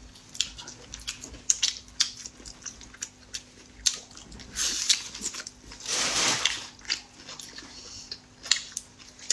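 Close-up eating sounds: biting into and chewing a rolled pancake wrap, with many short wet mouth clicks and smacks. Two longer rustling noises come about halfway through.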